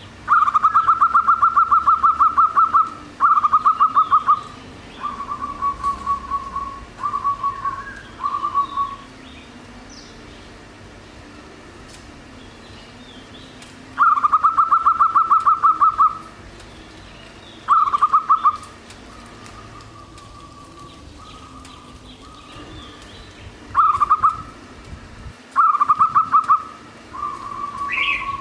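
Zebra dove (merbok) singing in the kocak gondang style: loud phrases of fast, stuttering coos at a steady pitch, each opening with a rapid run and trailing into softer notes. The phrases repeat about half a dozen times with pauses of several seconds between them.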